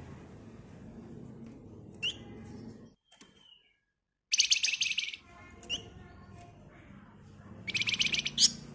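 Flamboyan songbird calling with short, sharp, rising chirps. Twice, once about four seconds in and again near the end, it breaks into a dense, fast rattling trill (the 'ngebren rapat'), each under a second long. A low steady hum runs underneath and cuts out completely for about a second just before the first trill.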